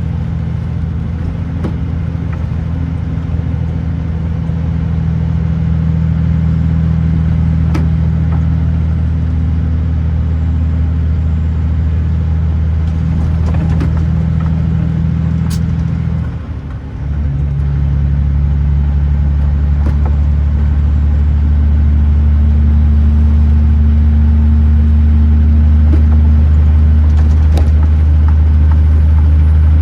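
Kenworth T909 truck's diesel engine running steadily on the road, a deep drone. Just past halfway the note breaks off briefly and comes back lower and stronger, a gear change. A few sharp clicks sound now and then.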